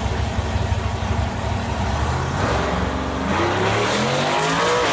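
A car engine running low and rough, then revving up from about halfway through, its pitch climbing steadily toward the end.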